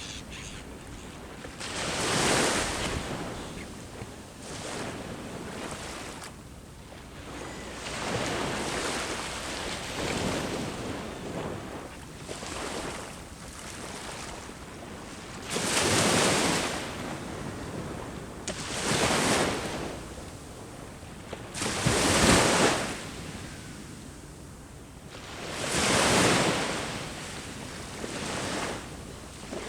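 Sea waves breaking on the shore, each swell of surf rising and washing out every few seconds, a few of them noticeably louder than the rest.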